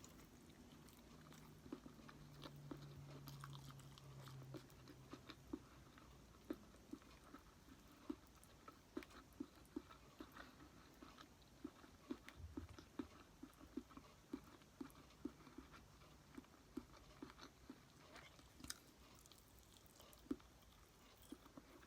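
Close-miked chewing of a mouthful of sushi, soft wet mouth smacks in a steady rhythm of about two a second.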